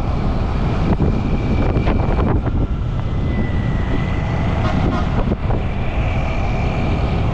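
Motorcycle riding noise: a steady rumble of wind buffeting the microphone and the engine and road beneath, with a faint high steady whine in the background.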